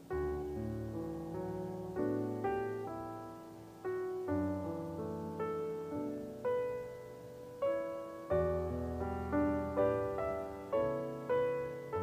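Slow background piano music: single notes and chords, each struck and left to die away over a low bass, coming a little faster in the second half.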